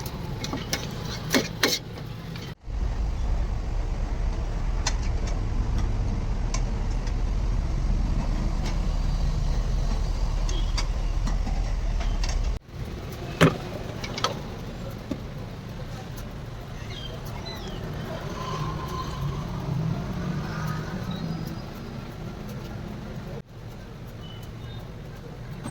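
Street-food stall ambience: a steady low rumble like passing traffic or a running motor, with scattered sharp clicks and taps. The sound cuts off and changes abruptly three times, about 3, 13 and 23 seconds in.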